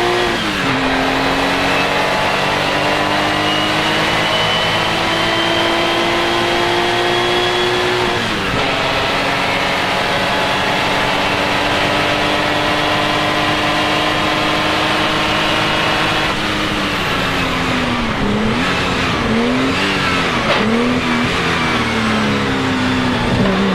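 Porsche 935 K3's turbocharged flat-six pulling hard under load. The revs climb steadily and drop sharply at upshifts about half a second and eight seconds in, then hold high for a long stretch. Near the end the revs dip and rise again several times in quick succession as the car lifts off and shifts down.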